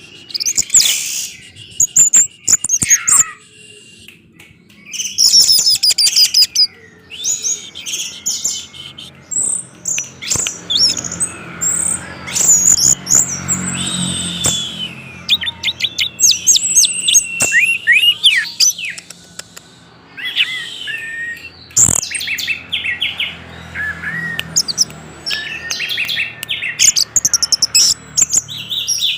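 Orange-headed thrush singing a long run of quick, varied, high whistled phrases separated by short pauses.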